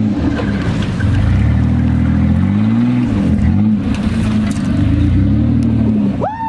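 A pickup truck's engine revving in about three long surges, each rising and falling, as the truck works against a car it is stuck on. Near the end a brief higher tone rises and falls.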